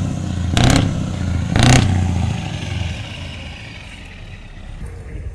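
Heavy truck engine revved in three short, loud blips about a second apart, over a low idle that settles back to a steady rumble.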